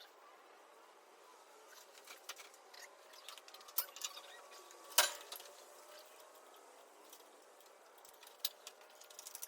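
Sped-up workshop sounds of hand-tool work on an engine: scattered light clicks and chirps, with one sharp metallic knock about halfway through.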